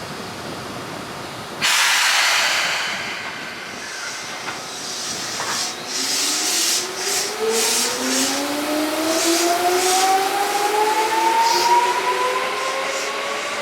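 Seibu 2000 series field-chopper train pulling away. Its air brakes release with a sudden loud hiss, then the traction motors whine, rising steadily in pitch as the train picks up speed, with light clatter from the wheels.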